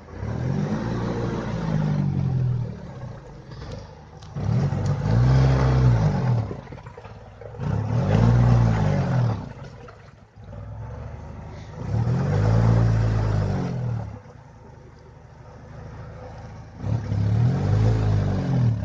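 Small two-cylinder engine of an Oka-based buggy revved hard five times, each rev rising and falling back to idle, as the driver tries to power the buggy out of a pit it is stuck in.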